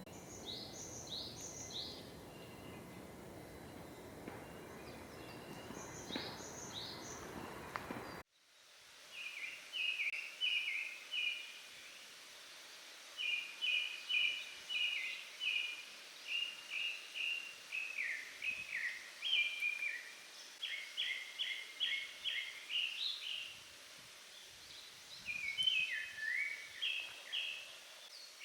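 Japanese thrush singing: a run of varied whistled phrases, each built from a note repeated several times, with a short pause before a last burst. Before it, about eight seconds of steady rushing background with two brief clusters of high, thin bird notes, ending in a sudden cut.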